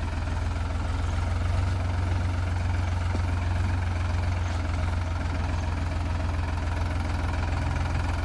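Sonalika DI 35 Sikander tractor's diesel engine running steadily at an even speed, a deep constant drone.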